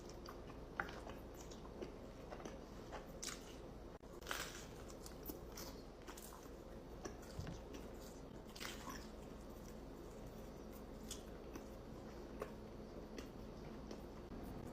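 Close-miked eating: someone biting and chewing pizza, with scattered crunches of crust and small wet mouth clicks over a low steady hum. The sound drops out briefly about four seconds in.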